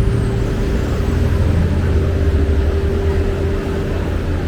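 Steady low rumble of road traffic with a constant hum over it, easing slightly near the end.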